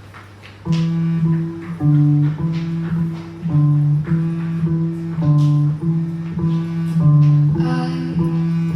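Electric bass guitar playing the opening of a song alone, plucked notes at about two a second, starting just under a second in; a low steady amplifier hum sits under it before the notes begin.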